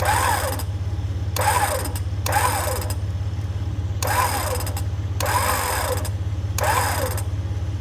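Warn M8274 electric winch motor run in short jogs: about six bursts, a second or so apart, each rising in pitch as it spins up and falling as it stops. A steady low engine hum from the idling Jeep runs underneath.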